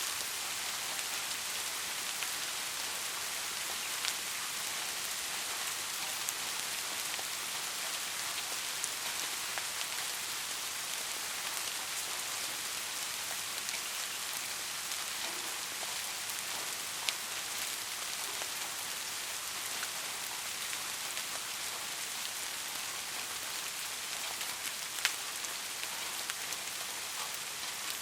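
Steady rain falling on a surface, an even hiss with a few sharper drops ticking now and then.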